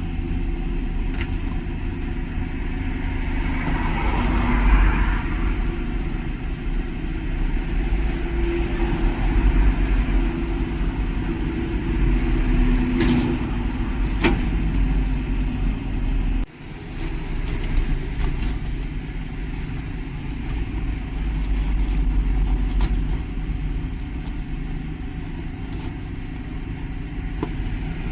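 A steady low motor rumble with faint humming and scattered light clicks. It drops out suddenly for an instant about sixteen seconds in, then carries on.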